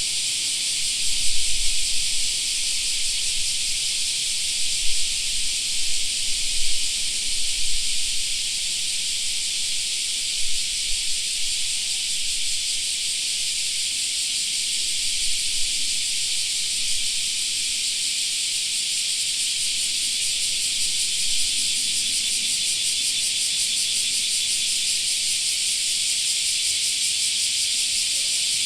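A steady, dense chorus of cicadas singing in summer, a high, unbroken hiss. A few low bumps come through in the first several seconds.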